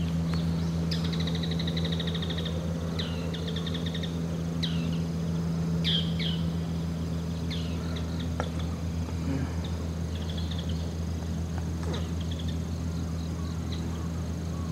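Small birds chirping, with a few trills and quick down-slurred calls, loudest over the first half and sparser later, over a steady low mechanical hum.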